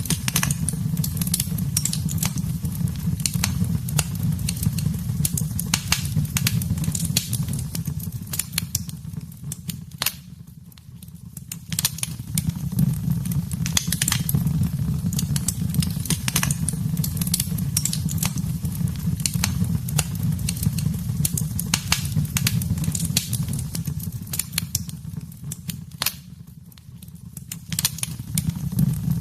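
Wood fire crackling in a fireplace: dense sharp pops and snaps over a steady low rumble of burning. The crackle thins out briefly twice, about ten seconds in and again about two-thirds of the way through.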